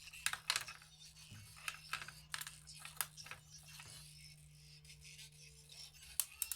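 Irregular small clicks and light rattles from hands handling a Bluetooth neckband's plastic parts, over a steady low electrical hum.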